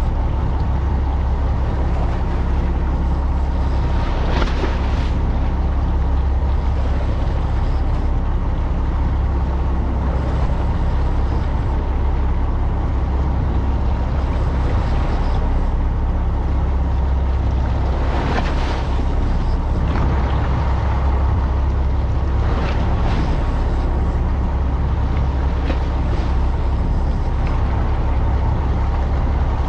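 Fishing boat's engine running steadily, a constant low drone, with a few short swells of noise over it.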